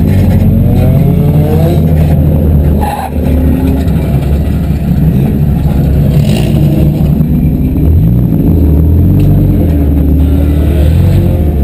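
Several demolition derby cars' engines revving, their pitch rising and falling as they accelerate and ease off.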